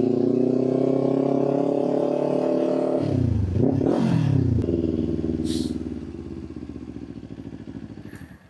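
Motorcycle engine running steadily under way, then the revs drop and rise in quick swings about three seconds in as the bike slows. It settles to a lower, quieter idle-like note and stops abruptly near the end.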